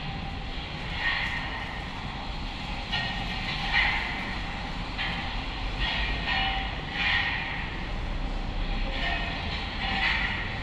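A train running, a steady low rumble with short higher-pitched bursts every second or two.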